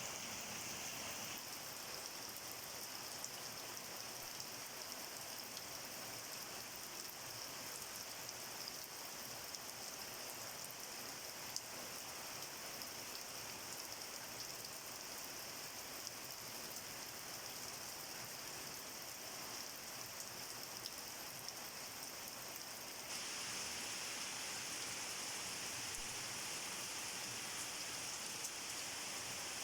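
Steady rain falling, a continuous hiss with scattered individual drop ticks. About three-quarters of the way through it turns suddenly louder and hissier.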